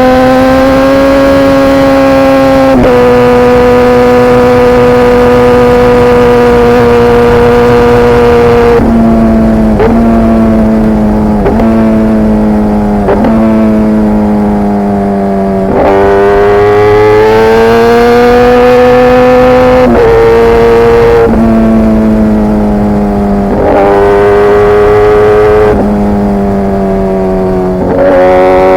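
Kawasaki ZX-10R inline-four running through an SC-Project CRT carbon exhaust while riding. It holds a steady engine note at first, then, from about a third of the way in, a run of pitch drops and jumps as it slows and changes gear, before pulling up in revs again with further gear changes.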